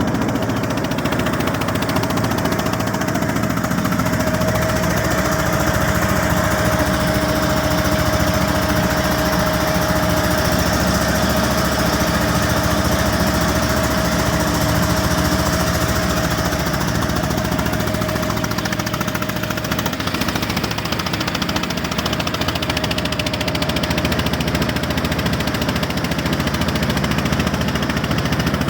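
A fishing boat's engine running steadily with a dense, knocking rumble and a faint steady whine.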